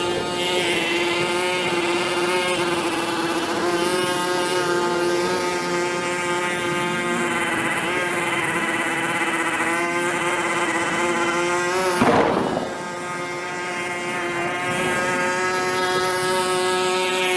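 A motor running steadily, a high hum with many overtones, briefly disturbed about twelve seconds in before settling again.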